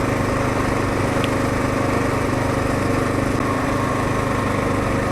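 Kawasaki KLR650's single-cylinder engine running steadily at an even speed while the motorcycle rides along a gravel road.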